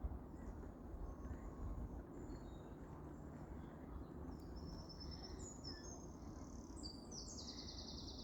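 Small birds chirping high and thin over a steady low outdoor rumble, the calls growing busier about halfway through and ending in a quick run of repeated notes.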